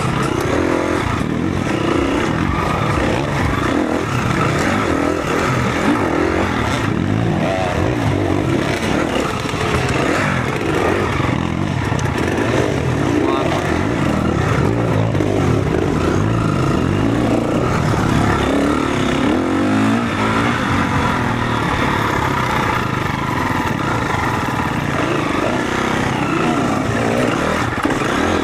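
Four-stroke enduro motorcycle engines running and revving, their pitch rising and falling continually with no let-up.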